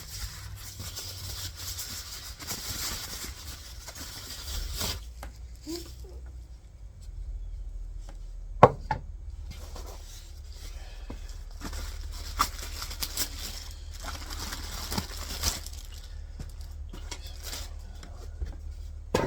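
Cardboard box and packing material being handled while unpacking: rustling and tearing, with a few sharp knocks and clicks, the loudest a little under halfway through.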